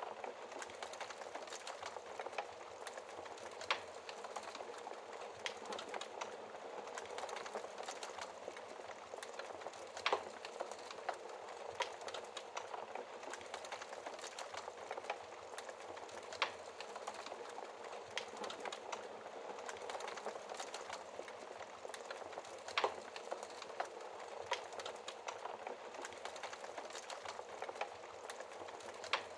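Wood fire crackling in a fireplace: a steady soft hiss of flames with constant small crackles and a louder pop every few seconds.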